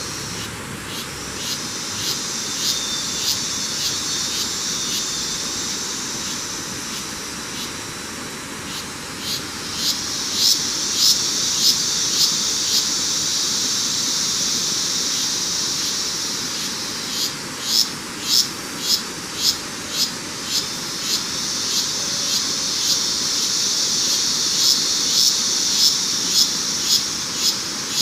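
High-pitched insect drone in a tropical dry forest, swelling and fading in long waves, with a sharp short call repeated about one and a half to two times a second in runs during the loudest stretches.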